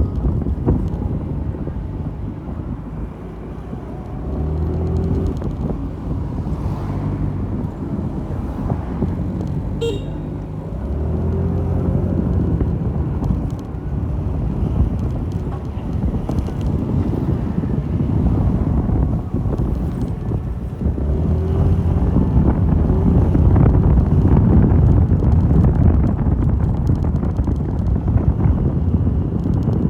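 Mondial Fury motorcycle engine running under way, its pitch climbing and then stepping down several times as it pulls through the gears, over steady wind rush on the microphone.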